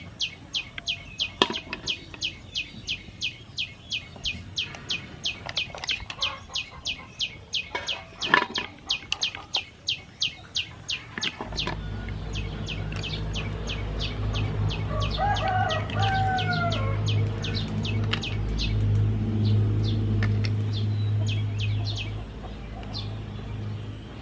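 A bird chirping rapidly and evenly, about four to five high chirps a second, with two sharp clicks as mussel shells knock against the metal basin. About halfway through a low steady hum comes in, the chirps thin out, and a longer call rises and falls.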